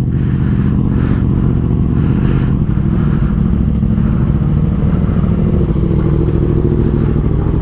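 Sportbike engine running steadily at low revs, holding an even pitch, while the bike creeps along at walking pace.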